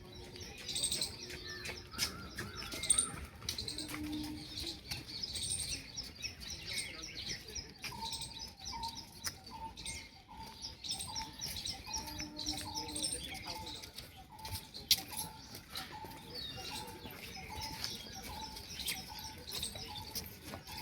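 Many small birds chirping and twittering continuously. From about eight seconds in, a short lower call joins them, repeating steadily about once or twice a second.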